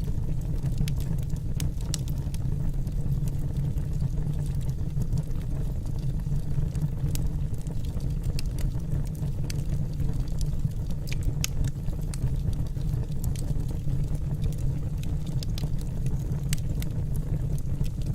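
Wood fire burning in a fireplace: a steady low rumble of the flames with frequent small, sharp crackles and pops from the logs.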